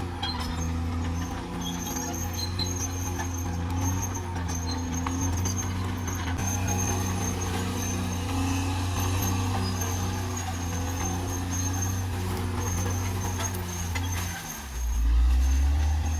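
CAT D6R XL bulldozer's diesel engine running steadily; near the end its note drops lower and grows louder.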